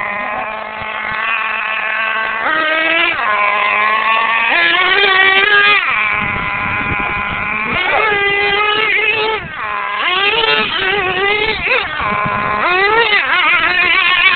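Radio-controlled monster truck's motor running, its pitch rising and falling again and again as the throttle is opened and backed off.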